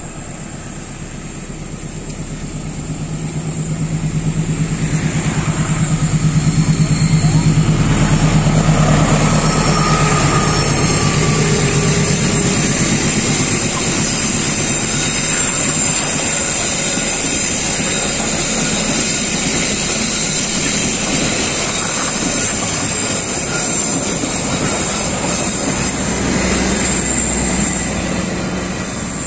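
A diesel-hauled passenger train passes close by. The rumble builds over the first few seconds to its loudest as the locomotive goes past, then a long string of coaches rolls by with steady wheel clatter over the rail joints. It eases off near the end.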